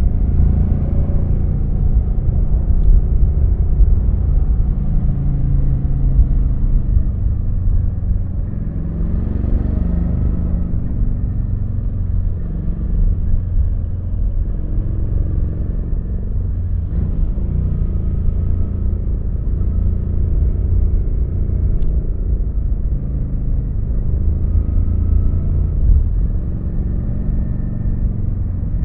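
Kawasaki VN900's V-twin engine running as the motorcycle rides along the road, a deep steady sound. The engine note rises and falls around ten seconds in and again a little past the middle.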